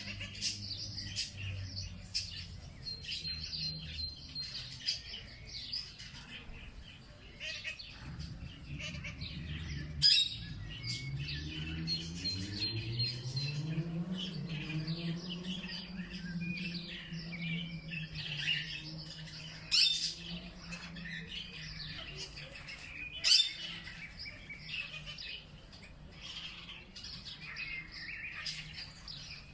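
Many small birds chirping and calling over one another in a dense chorus, broken by a few sharp, loud calls about a third and two thirds of the way in. Under them a low hum rises in pitch and then holds steady.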